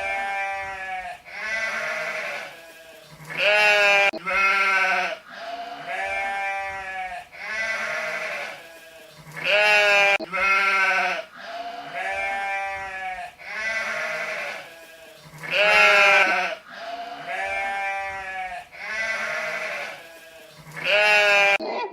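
Sheep bleating repeatedly, one call every second or two, each call quavering; some bleats are louder and higher-pitched than others.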